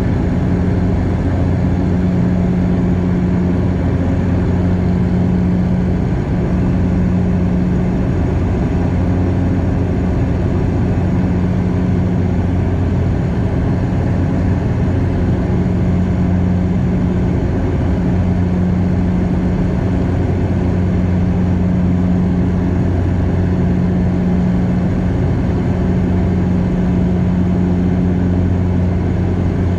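Cabin noise of a Bombardier DHC8-Q400 turboprop airliner: the propellers' steady low drone, a hum with its overtone, over the even rush of airflow, unchanging.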